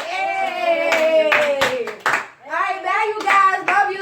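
Voices in a drawn-out, sing-song chant, with hand claps among them.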